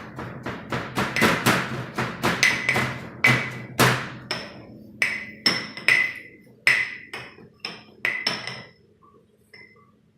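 Boiled peas being pounded and mashed in a vessel: repeated knocks, about two a second, each with a short ringing tone, stopping near the end.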